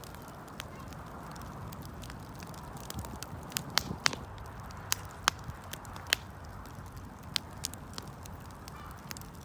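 Wood fire crackling: irregular sharp pops and snaps, a few much louder than the rest, over a steady low rushing noise.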